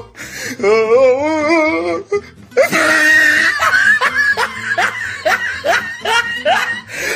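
Laughter: a wavering, pitched laugh, then a long run of quick laughing bursts, about two to three a second, over music.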